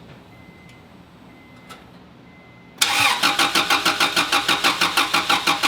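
An Acura Integra's starter cranks the engine for nearly three seconds in an even rhythm of about five beats a second, then stops without the engine catching. The car will not start, a fault the owner blames on the distributor.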